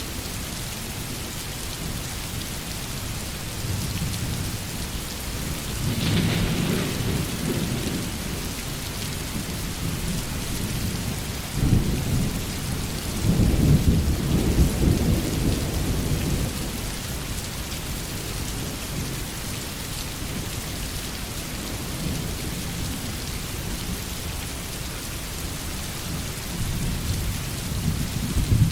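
Heavy rain falling steadily, with thunder: a rumble about six seconds in, then a sharper crack just before twelve seconds that rolls on loudest for several seconds.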